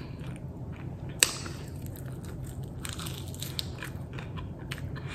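Close-miked chewing and crunching of a chicken wing, with one sharp crack about a second in and small wet clicks throughout.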